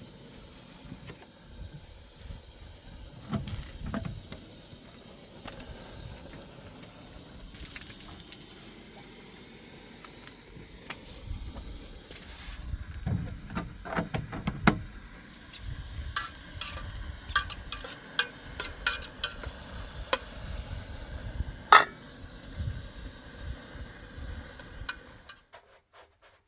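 Scattered knocks, taps and scrapes of hand work on a building site, busier in the second half, with one sharp crack a little after twenty seconds in and a faint steady high whine underneath. The sound cuts off suddenly near the end.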